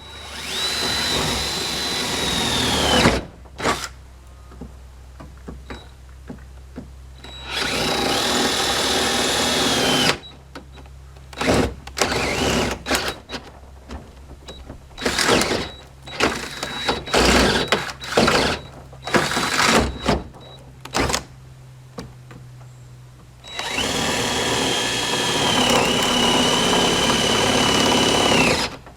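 Electric power tool cutting through vehicle body sheet metal. It runs in three long stretches of a few seconds each with a steady high whine, with many short bursts of cutting in between.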